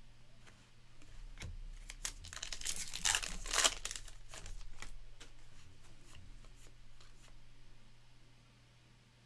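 A trading card pack's wrapper being torn open and crinkled, the tearing loudest about three to four seconds in, then quieter rustling as the cards are handled.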